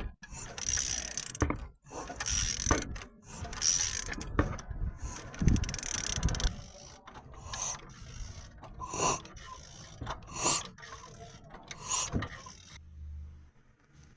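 Metal mechanism worked by hand in timing-belt repair: about a dozen short mechanical strokes, roughly a second apart and spacing out later, stopping about 13 seconds in.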